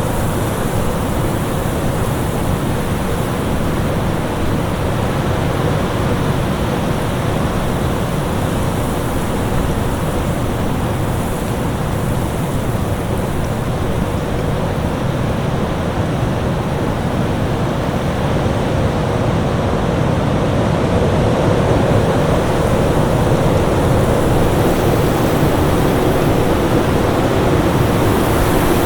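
Winter storm ambience: a steady, deep rushing of wind, swelling slightly near the end.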